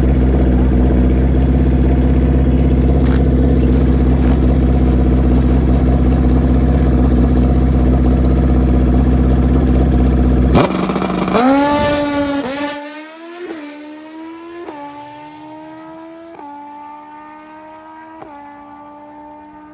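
Suzuki Hayabusa drag bike engine held at steady high revs on the start line, then launching about ten seconds in. The revs climb and step down as it shifts up through the gears four times, fading as it pulls away down the strip.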